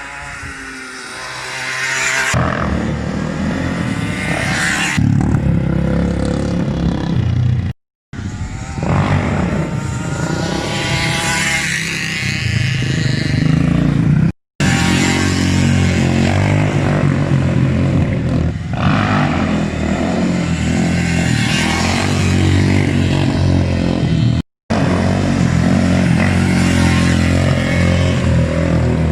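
Motorcycle and quad engines running loud, with revving that rises and falls in pitch, heard over several short clips joined by abrupt cuts.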